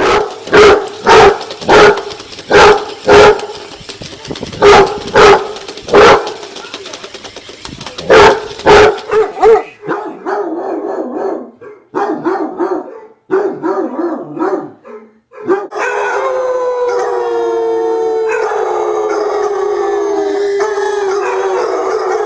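Basset hounds giving voice: loud repeated barks, about two a second, for the first nine seconds or so, then softer short yips. About sixteen seconds in, a long unbroken howl begins and slowly falls in pitch.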